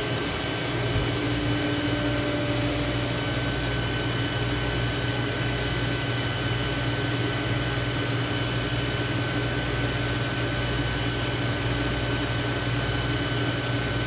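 A steady machine hum with a few constant tones and no let-up, with a faint extra tone coming in about a second in.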